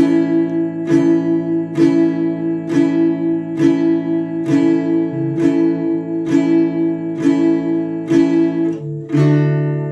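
Acoustic guitar strummed in a steady rhythm, each strum ringing into the next, with a chord change about halfway through and another near the end.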